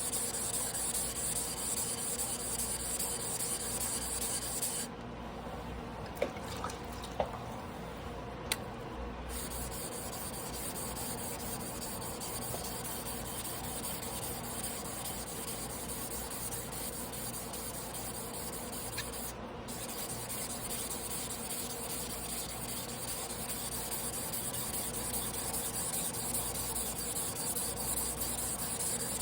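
Damascus carbon-steel sashimi knife blade rubbed back and forth on a whetstone in hand sharpening, a steady scraping hiss. It breaks off for a few seconds about five seconds in, with three light clicks, then carries on.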